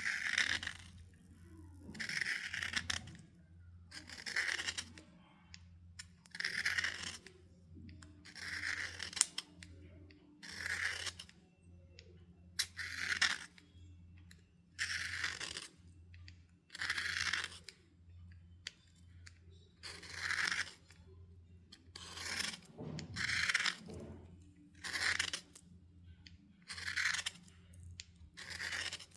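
Wet chalk being scraped in slow, repeated strokes, a crunchy, gritty scrape about once every two seconds.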